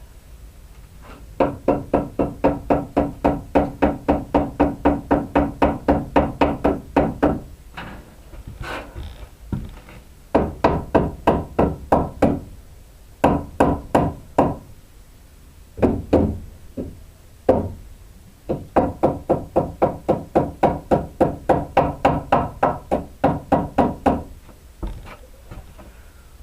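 Hand hammer striking in quick runs of about four blows a second, each blow ringing. There are two long runs and several short bursts, with brief pauses between them.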